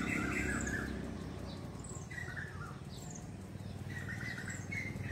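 Small birds chirping: repeated short chirps and a few high, quickly falling notes, over a low steady hum.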